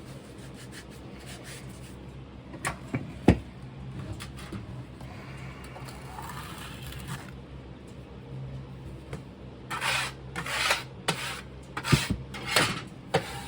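Casting sand being worked in a molding flask: two sharp knocks about three seconds in, then a run of short rubbing, scraping strokes near the end, like sand being packed and scraped level.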